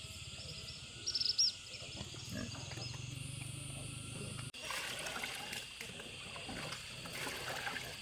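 Outdoor ambience with a quick cluster of high bird chirps about a second in. After an abrupt cut just past halfway, a busier texture of short crackles and rustles takes over.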